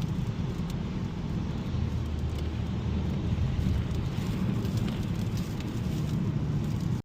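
Steady in-cabin road noise of a 2021 Mazda 3 Turbo AWD cruising on a wet, slushy highway: a low rumble of tyres and drivetrain under an even hiss.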